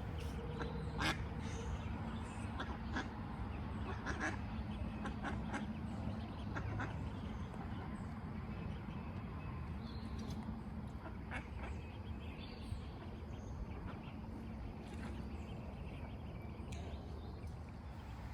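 Mallard duckling and its family calling in short, scattered calls over a steady background noise. The duckling is vocal again now that the swallowed fishing line has been removed from its mouth.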